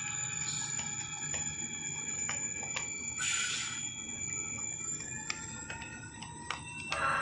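DCC sound decoder in an HO scale V/Line A class diesel model playing locomotive sounds through its small speaker: a steady engine sound with a thin high whine and scattered clicks from the wheels on the track. There is a short air hiss about three seconds in, and a horn begins right at the end.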